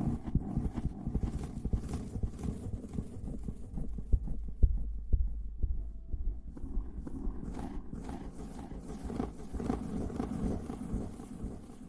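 Close-miked ASMR rubbing and scratching on the microphone: a dense, irregular run of soft low thumps and rustles, easing off briefly around the middle before picking up again.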